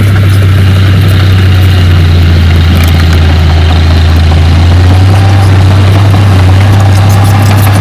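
Heavy diesel engine of an earthmoving machine running steadily at an even speed: a loud, constant low drone with no revving.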